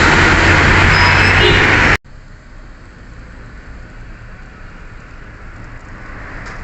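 Loud, steady road traffic noise with a low engine hum, cut off abruptly about two seconds in, leaving a much quieter steady background hiss.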